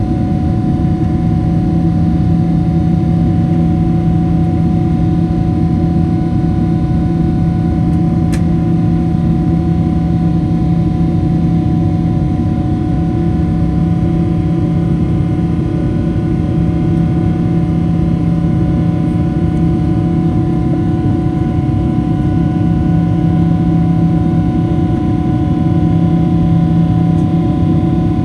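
Boeing 777-300 cabin noise heard from a forward window seat during takeoff: a steady, loud jet-engine and airflow drone with several constant hum tones layered over it. A single short click comes about eight seconds in.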